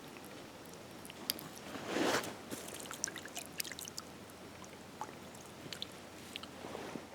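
A short splash of water about two seconds in, among small clicks and handling noises, over a faint steady flow of river water.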